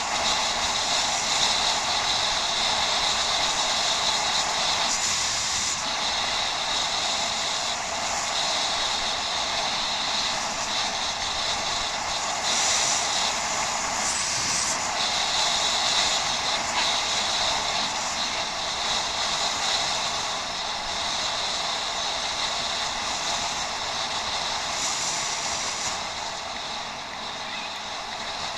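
Steady rushing noise of a bicycle ride picked up by a head-mounted action camera, with a high hiss that briefly drops out and returns several times.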